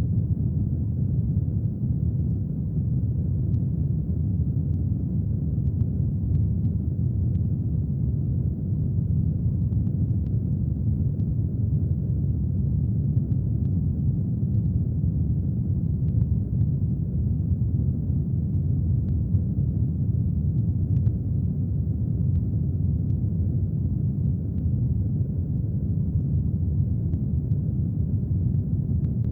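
Brown noise mixed with rain: a steady, low, even hiss with its weight in the bass, and faint scattered drop ticks above it.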